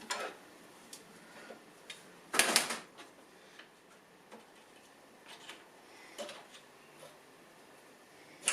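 Small metal parts being handled and taken out of a car's wiper mechanism: scattered light clicks and knocks, with one louder rattling clatter about two and a half seconds in.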